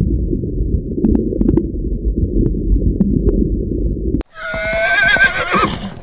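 Low underwater rumble with a few faint clicks. About four seconds in it cuts off sharply and a horse whinnies loudly, its pitch quavering, for about a second and a half over the hoofbeats of a running herd.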